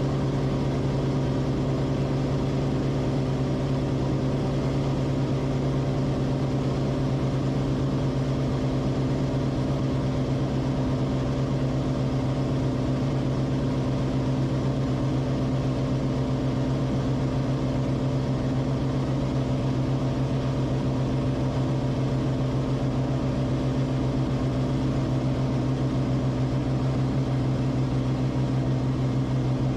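Cessna Corvalis TTX's turbocharged six-cylinder Continental engine and propeller droning steadily, heard from inside the cabin, with a strong low hum and an even level throughout.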